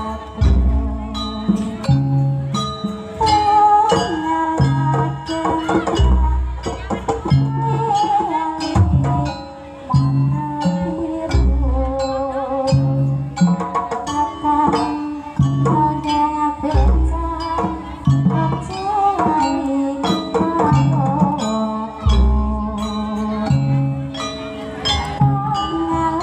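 Traditional Javanese jaranan music: busy hand-drum percussion under a wavering melody line, with a deep low stroke about every five and a half seconds.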